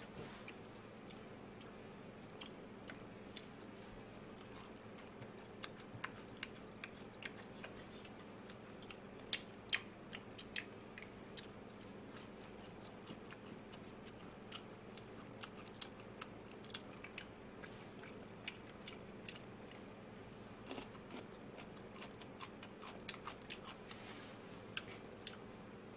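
Faint chewing of crispy fried food, with scattered small crunches and mouth clicks, over a steady low electrical hum.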